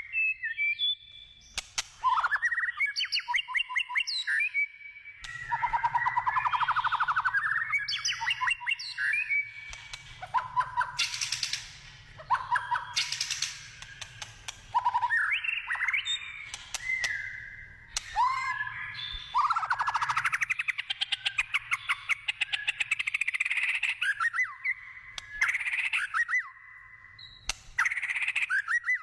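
White-rumped shama (murai batu) singing a long, varied song: clear gliding whistles, rapid trills and harsh notes follow one another with only short pauses.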